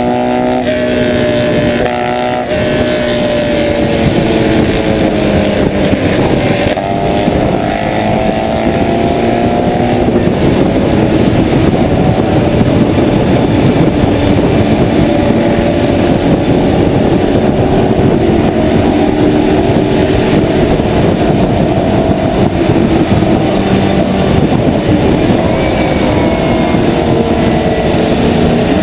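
A Steyr Puch's small air-cooled flat-twin engine running hard at speed, its pitch rising and falling as it pulls through the gears, under heavy wind and road rush on the car-mounted microphone.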